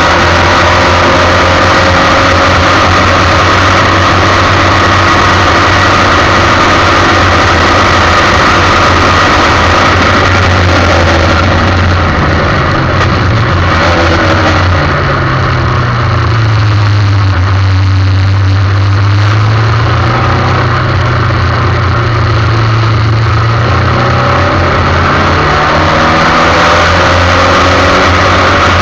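Formula 1600 single-seater race car engine, heard onboard, running at high revs. About halfway through the revs drop and the note sinks low for a few seconds, as when slowing for a corner, then climbs again as the car accelerates.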